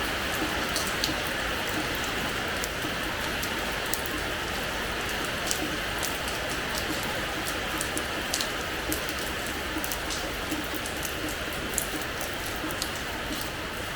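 Steady rain falling on a terrace floor: an even hiss with many sharp drop splashes scattered through it.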